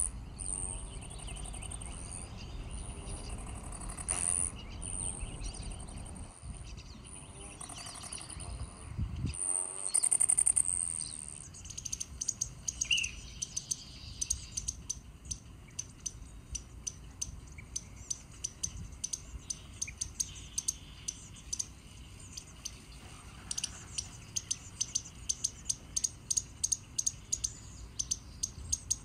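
Wild birds calling: first a series of long, very high, thin notes about a second each, then a rapid run of short, sharp chirps repeated several times a second.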